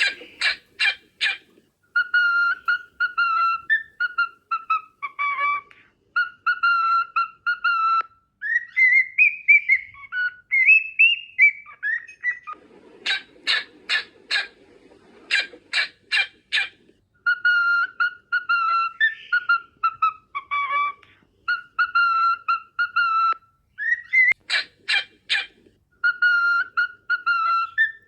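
Cockatiel whistling a song over and over: quick runs of sharp chirps, then a phrase of held whistled notes that step down in pitch, with a few rising whistled glides between the phrases.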